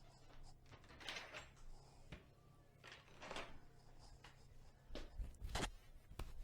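Dishes being washed by hand: quiet clinks and knocks of crockery and cutlery, with two brief swishing sounds and a sharper knock near the end, over a steady low hum.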